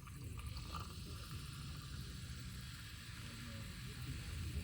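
Steady sizzling of food frying in a skillet over a campfire, with a low rumble underneath.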